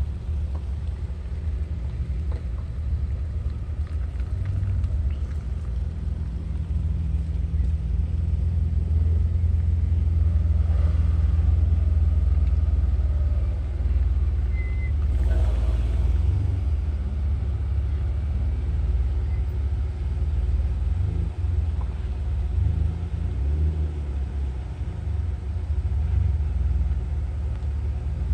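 A loud, steady low rumble, with a brief sweeping sound about halfway through.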